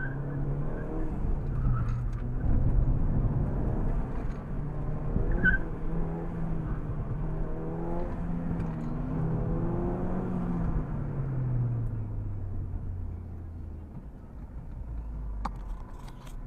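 Ford Fiesta ST's turbocharged 1.6-litre four-cylinder engine, heard from inside the cabin while the car is driven hard around an autocross course, its note rising and falling with the throttle and gear changes. About ten seconds in the engine note falls away and settles into a low steady hum as the car slows, with a few sharp clicks near the end.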